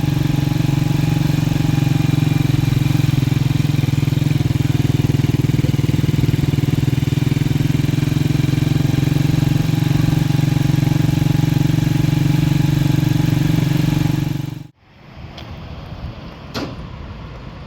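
Motorcycle engine running steadily, a loud even hum that cuts off suddenly about fifteen seconds in. A quieter outdoor background follows, with one sharp knock near the end.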